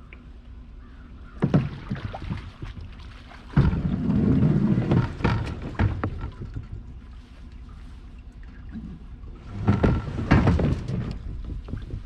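Knocks and clatter of gear and paddle against a kayak hull, in clusters, over a low steady rumble of wind on the microphone.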